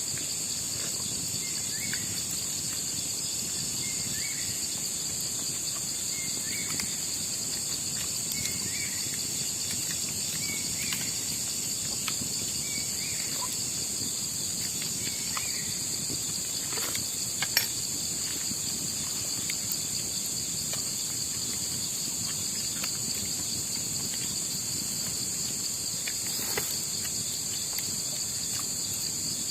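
Night insect chorus of crickets, a steady high shrill trilling that does not let up. A fainter short chirp repeats about once a second through the first half, and a sharp click comes a little past the middle.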